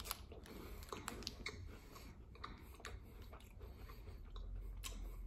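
A person biting into and chewing a rum raisin Kit Kat wafer bar. A bite at the start is followed by faint, scattered crunches and mouth clicks.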